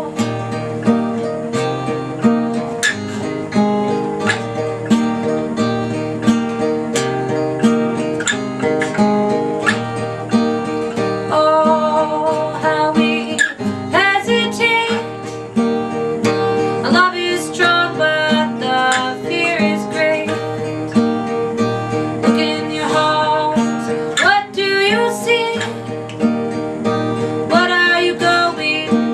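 Music: acoustic guitar picking and strumming through a song's instrumental passage.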